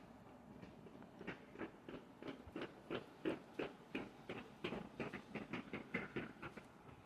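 A quick run of short, irregular taps or clicks, about three to four a second, starting about a second in and dying away near the end.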